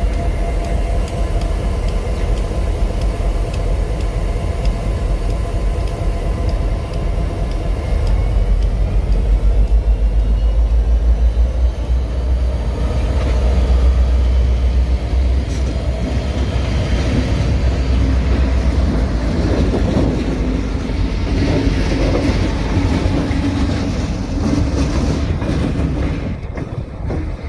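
Freight train moving past: a steady heavy rumble of the rolling railcars and diesel locomotive, with faint higher tones from wheels or engine over it, loudest about a third of the way in and easing off near the end.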